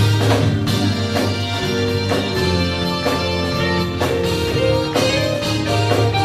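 Live band playing an instrumental passage: a heavy bass line, sustained keyboard chords, guitar and steady drum hits.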